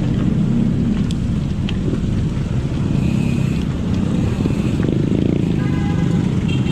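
Road traffic with motorcycles running, a steady low rumble, with a short pitched tone about five and a half seconds in.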